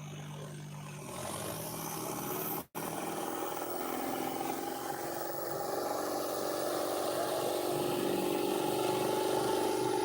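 Diesel tractor engines running under load and building revs, growing louder over the second half, with a brief break in the sound a little under three seconds in.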